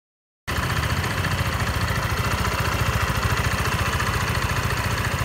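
Yamaha Force 155 scooter's liquid-cooled single-cylinder engine idling with rapid, even pulses, starting abruptly about half a second in. It carries an abnormal noise from the right side of the engine, at the radiator end.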